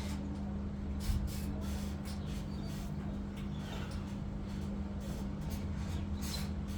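Samsung ecobubble washing machine running on a spin, a steady hum over a low rumble, with scattered light knocks and clicks.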